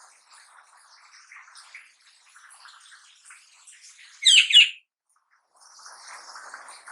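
Young black-naped oriole calling: soft, continuous twittering, with one loud, short call about four seconds in.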